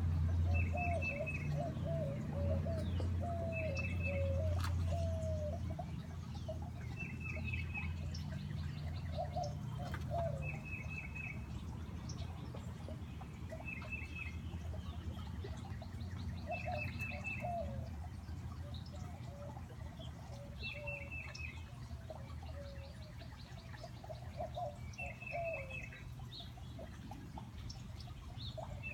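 Titmouse singing a short phrase of quick, high, repeated notes, given again every two to three seconds. Softer, lower wavering calls sound in between, over a steady low background from the garden fountain.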